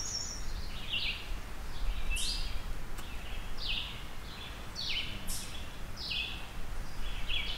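A bird chirping over and over, short high calls about every half second to a second, over a faint low rumble.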